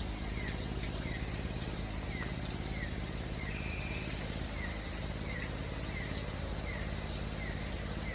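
Rainforest night chorus of insects: a continuous high-pitched cricket-like drone, with a short falling chirp repeating about every two-thirds of a second and a brief buzzing note about halfway through.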